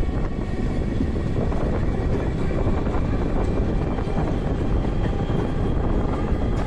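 Steady rumble and rush of a passenger train running along the track, heard from an open coach doorway, with faint steady high tones above it.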